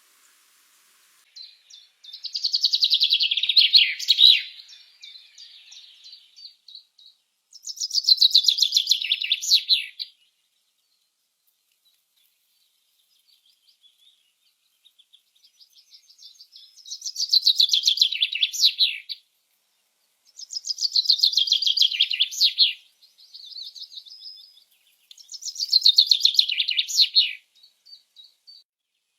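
A small songbird singing: five loud phrases, each a fast, buzzy trill that falls in pitch, separated by pauses and a few softer short notes.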